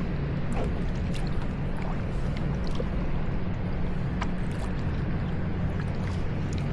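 Kayaking on a river: a steady low rumble of wind and water on the microphone, with light drips and small splashes from the paddles.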